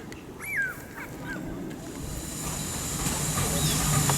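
A single honking bird call about half a second in, then the sound of an approaching steam train, a hissing, rumbling noise that grows steadily louder toward the end.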